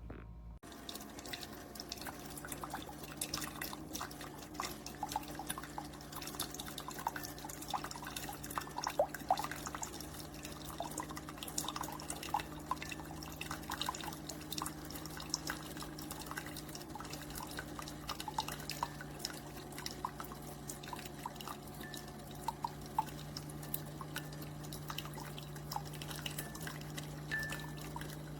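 Keurig K-Supreme single-serve coffee maker brewing: a steady pump hum with coffee trickling and dripping into the cup in many small irregular splashes.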